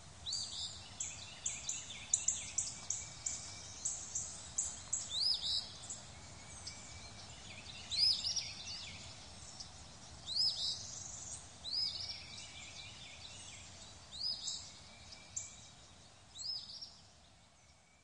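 Birds chirping over a faint steady outdoor hiss. A quick run of short high chirps, two or three a second, gives way after about six seconds to single arched whistled notes every second or two.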